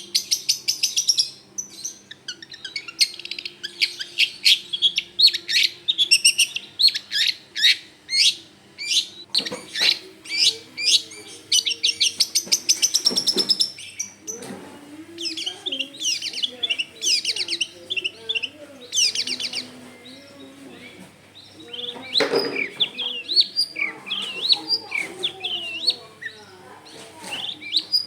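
Long-tailed shrike (cendet) singing in full voice: long runs of fast, sharp chattering notes repeated several times a second, with short pauses between phrases.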